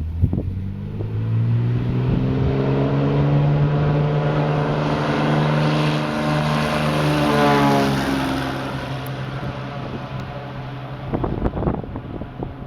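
Light single-engine propeller plane at full takeoff power passing close by, its engine and propeller drone swelling, then dropping in pitch as it goes past and fading away. Wind buffets the microphone near the start and end.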